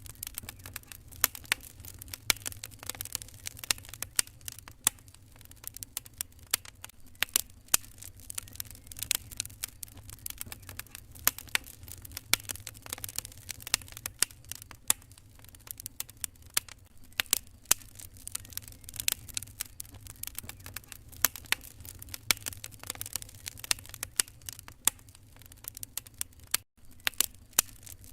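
Wood fire crackling in a fireplace: irregular sharp pops and snaps, several a second, over a steady low rumble. The sound cuts out for an instant near the end.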